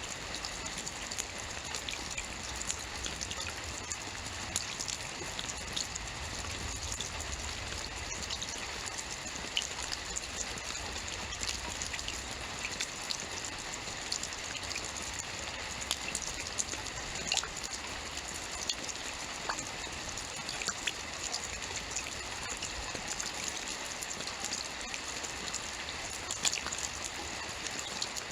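Steady rainfall: an even hiss of rain with many scattered individual drops pattering and ticking on a surface.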